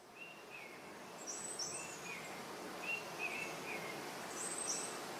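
Birds calling outdoors: short chirps repeated every half-second or so, with a higher pair of notes twice, over a steady hiss of background noise.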